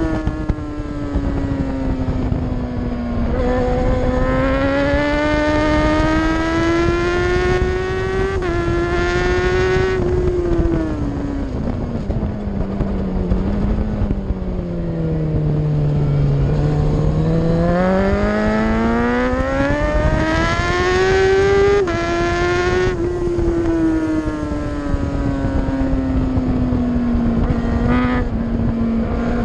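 Racing motorcycle engine heard onboard at speed. Its pitch drops steadily to its lowest about halfway through as the bike slows for a corner, then climbs back up under throttle, with a quick gear-change step near the two-thirds mark.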